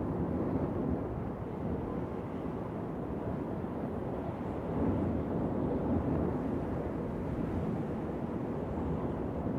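Steady wind blowing, a low, even rush that swells slightly about five seconds in.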